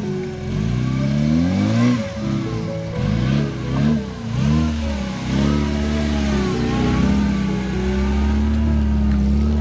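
UAZ off-road vehicle engine revving up and down over and over under load, then settling into a steady pull about two-thirds of the way through.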